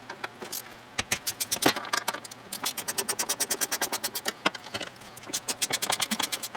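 Socket ratchet clicking in quick runs of about ten clicks a second as a truck door's hinge bolts are being loosened, with a few sharper metal knocks between one and two seconds in.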